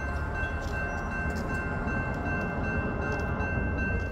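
Steady low rumble of an approaching diesel freight train still out of sight, with two thin, steady high-pitched tones held over it.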